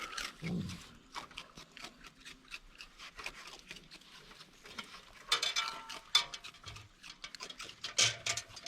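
Raccoons eating at a feeder: a run of small clicks and crunches of chewing and food being handled, with louder scratchy bursts about five seconds in and again near the end.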